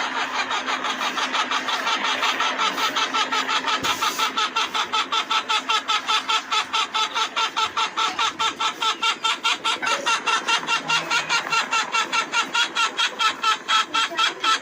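Helicopter running, its rotor beating at about five pulses a second; the beat becomes sharper and more pronounced from about four seconds in.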